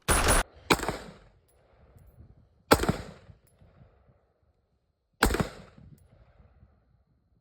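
Four single shots from a semi-automatic rifle-calibre firearm: two in quick succession at the start, then one about two seconds later and another about two and a half seconds after that, each followed by a short echo.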